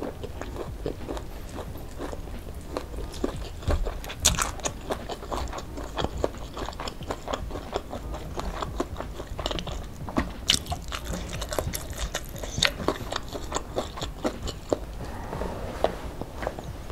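Close-miked chewing of a mouthful of fried chicken and rice with sambal, with many irregular wet mouth clicks.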